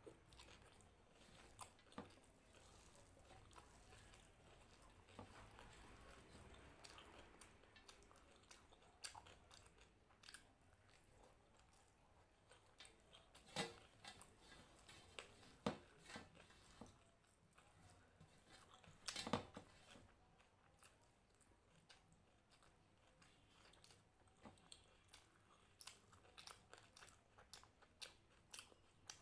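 A person chewing and crunching crunchy food, puffed rice and fried snacks, at close range, with irregular crisp crunches and three louder bites about halfway through.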